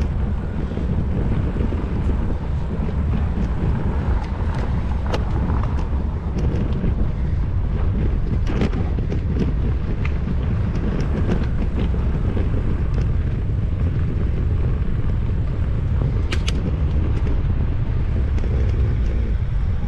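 Riding a bicycle with wind rumbling steadily on the GoPro's microphone, with scattered sharp clicks and rattles, mostly in the second half.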